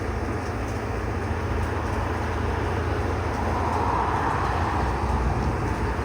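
Steady low rumble with a hiss over it, swelling a little past the middle.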